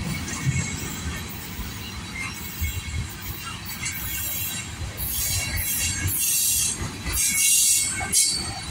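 Freight train of tank cars rolling past close by: a steady low rumble of steel wheels on the rails, with bursts of high hiss joining in about halfway through.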